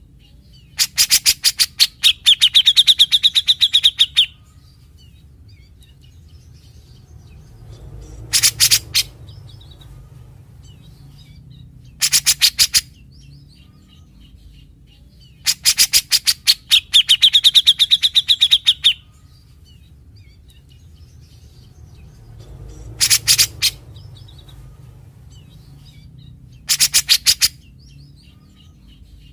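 Grey-cheeked bulbul (cucak jenggot) giving harsh, rasping 'besetan' calls in bursts. Two long bursts of about three seconds carry a whistled note, and four shorter bursts of about half a second fall between them. A steady low hum runs underneath.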